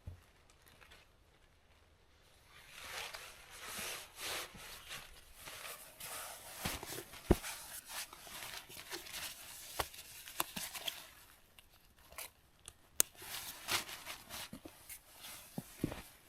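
Rustling and crinkling of fabric and stuff sacks being packed into a backpack, starting a couple of seconds in, with a few sharp clicks and knocks.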